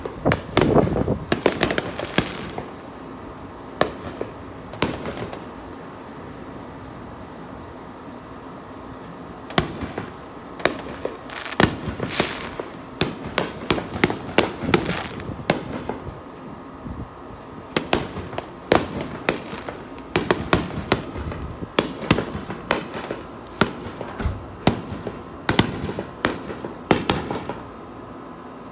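Consumer fireworks going off in irregular volleys of sharp bangs and crackles, with a lull of a few seconds in the first third before the bangs pick up again and keep coming thickly.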